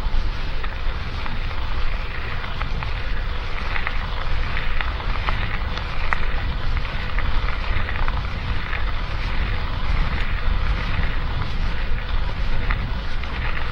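Wind buffeting the microphone of a camera riding on an electric mountain bike, with a steady crackle and scattered small clicks from the tyres on a rough trail.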